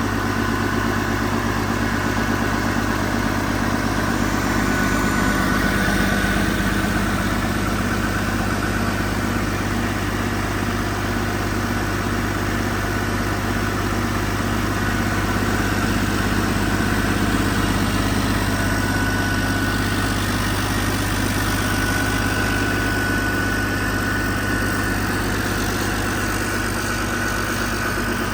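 PACCAR MX-13 12.9-litre inline-six diesel engine idling steadily, with a faint high whine running above the engine note.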